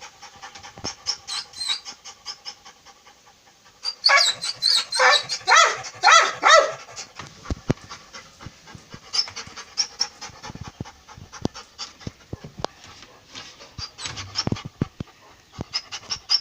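A pet animal gives a quick run of about six loud, high cries about four seconds in, amid many small clicks and rustles.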